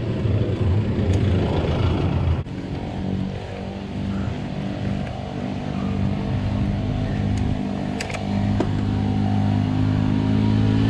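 A motor vehicle engine running steadily and rising in pitch near the end, after a couple of seconds of low rumbling noise.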